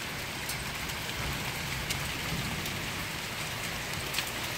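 Heavy rain pouring steadily, a dense even hiss, with a few sharp ticks of hailstones striking.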